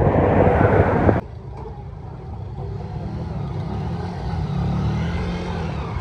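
A loud, noisy rumble that cuts off abruptly about a second in, followed by a steadier, lower motor-vehicle engine rumble that swells briefly past the middle.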